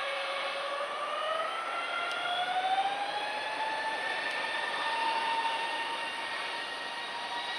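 Airbus A320neo's CFM LEAP-1A turbofans spooling up for the takeoff run: a jet whine with several tones rising in pitch over the first few seconds, then holding steady over the engine noise.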